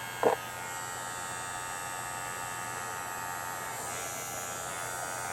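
Small cheap essential-oil diffuser running, a steady electric whirring buzz with a thin whine. A brief short sound cuts in just after the start.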